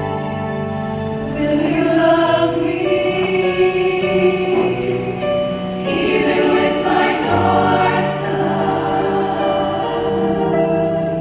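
Women's show choir singing in harmony, with sustained held chords.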